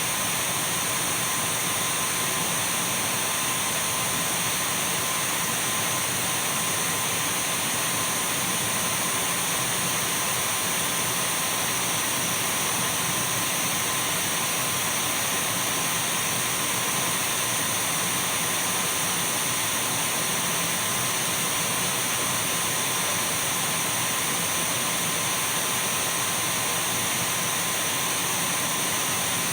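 Dyson V12 cordless stick vacuum running steadily: an even rush of air with a constant high whine, unchanging throughout.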